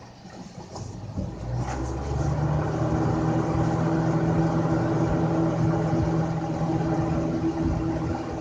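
1990s Lasko 20-inch box fan switched on high, its motor and blades spinning up and getting louder over about two seconds, then running steadily with an electric motor hum over the rush of air.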